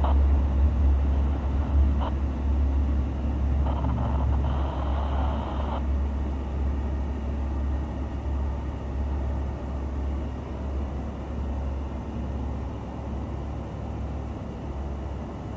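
Diesel locomotive engine running with a steady low rumble that slowly fades as the train draws away. A brief burst of higher-pitched noise comes about four to six seconds in.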